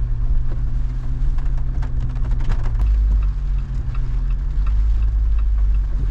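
Jeep Wrangler driving at low speed: a steady low engine and road drone, whose pitch shifts about halfway through as it slows. A row of light, evenly spaced ticks runs through the second half.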